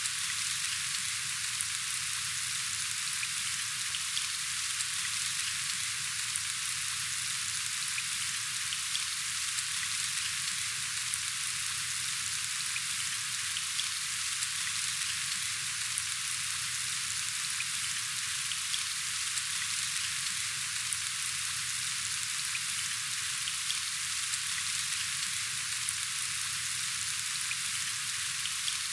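Steady rain falling: a dense, even hiss with many faint drop ticks.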